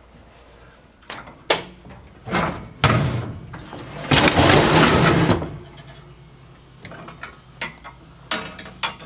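Metal barbecue grill being pulled off a load of scrap: a few knocks, then a long scraping slide about four to five seconds in, followed by lighter clanks.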